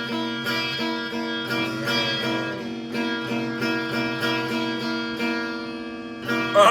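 Acoustic guitar strummed in steady, regular chords.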